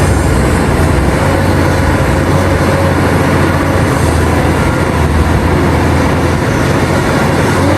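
Heavy diesel mining machinery, excavators and haul trucks, running with a steady, deep engine drone.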